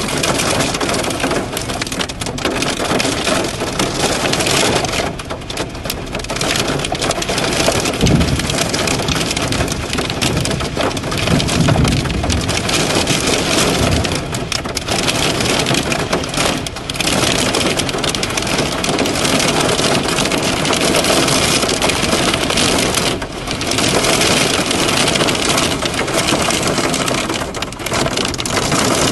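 Heavy rain pouring down in a storm, a steady rushing hiss that swells and eases, with a couple of low rumbles about a third of the way in.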